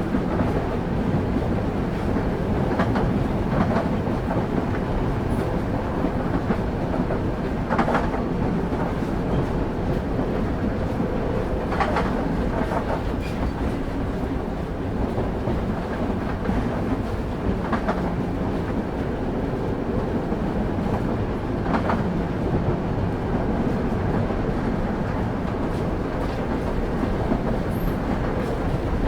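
Train wheels running on the rails with a steady low rumble, heard from on board a carriage, with a sharp clack every few seconds as the wheels cross rail joints.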